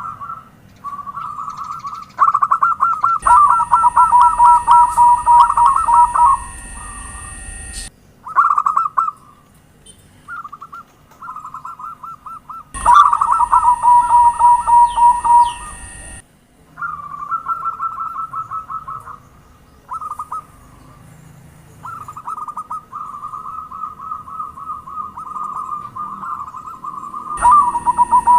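Zebra doves (perkutut) cooing: phrases of rapid, pulsing trilled coos, repeated with short gaps. Louder passages that start and stop abruptly come in about three seconds in, again around thirteen seconds, and near the end.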